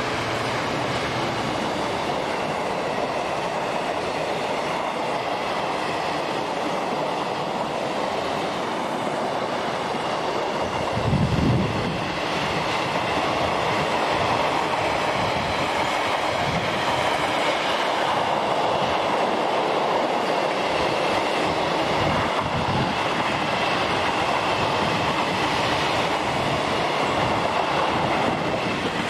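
Intermodal container freight train, hauled by a DB Cargo Class 66, with its loaded flat wagons rolling past close by: a steady rumble and rush of wheels on rail, with one brief low thump about eleven seconds in.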